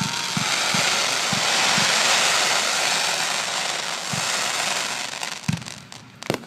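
Fireworks going off: a dense crackling hiss for about five seconds with scattered low thuds under it, fading out, then a sharp bang near the end.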